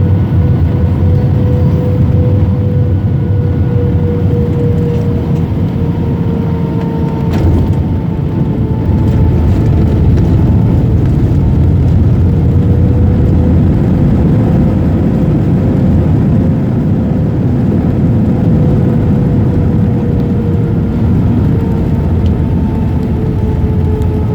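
Airbus A320 cabin noise on landing: loud engine and airframe rumble with a steady engine whine that drifts slightly in pitch, growing a little louder about nine seconds in.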